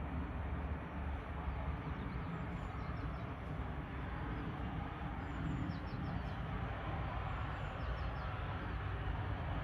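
Steady rumble of airliner jet engines, with a few faint bird chirps above it.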